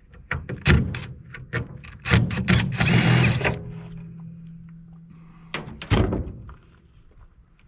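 Knocks and clunks of tools and scrap metal being handled, with a short loud burst of noise about three seconds in, a steady low hum for a couple of seconds after it, and two more thuds about six seconds in.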